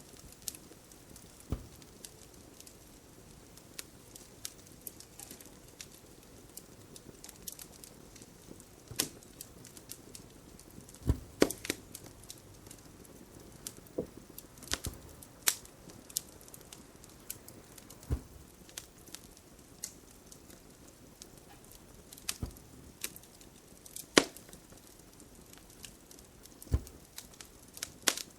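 Wood fire crackling: irregular sharp pops every second or two over a faint steady hiss.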